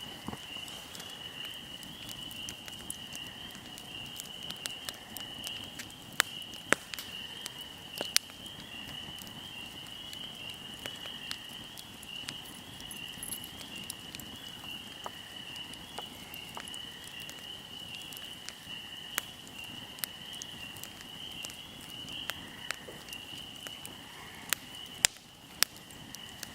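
A fire crackling, with scattered sharp pops and snaps, a few louder ones standing out, over a steady high-pitched chirring of insects.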